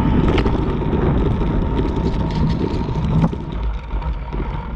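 Wind buffeting the microphone of a camera on a moving road bike, over a low steady rumble of tyres on the road.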